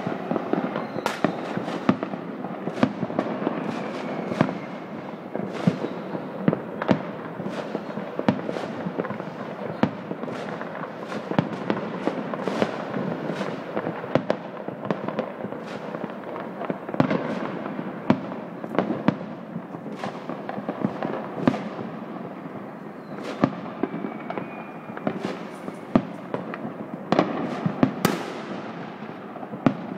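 Many fireworks going off at once: a dense, unbroken crackle of overlapping bangs, with sharper, louder reports every second or two.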